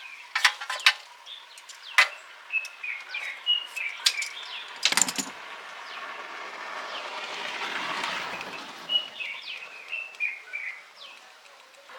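Birds chirping in two short runs of notes. A few sharp clicks or knocks come in the first half, the loudest about five seconds in. A vehicle passes, swelling up and fading away around two-thirds of the way through.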